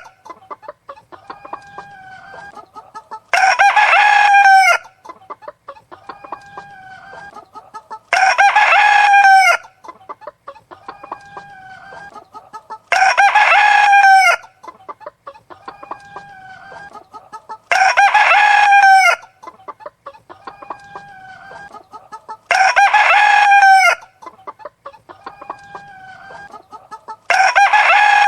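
A rooster crowing six times, evenly spaced about every five seconds, with quieter hen clucking in between. Each crow and the clucks around it repeat in the same pattern every time, like a looped recording.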